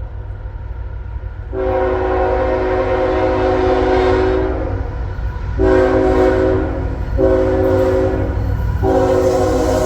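Freight locomotive's air horn sounding a chord in four blasts: a long one, two shorter ones, then another long one still sounding at the end. A low rumble from the passing train runs underneath.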